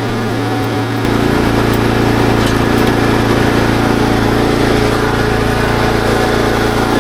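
Small engine of a Kubota SPJ400 rice transplanter running steadily. About a second in it gets louder, with a deeper hum added, as if a drive or mechanism has been engaged.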